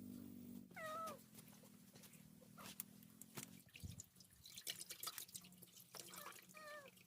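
Faint, short animal calls: one with a falling, wavering pitch about a second in and two more near the end, with scattered light clicks between them.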